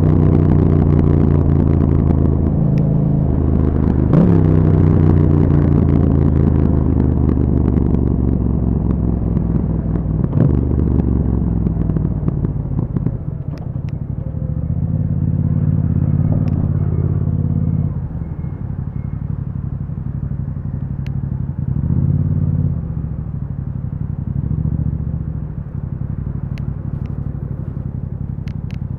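2021 Yamaha MT-07's parallel-twin engine through an Akrapovic exhaust with a dB killer, under way. It pulls hard with a couple of quick pitch changes in the first ten seconds or so, then settles to lighter throttle with a few short swells in revs.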